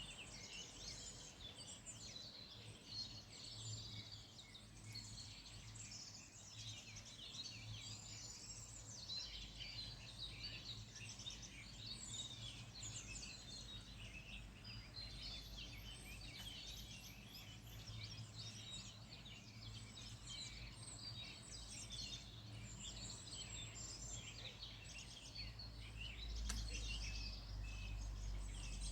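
Many songbirds singing and chirping at once, their calls overlapping without a break, over a low rumble that grows stronger near the end.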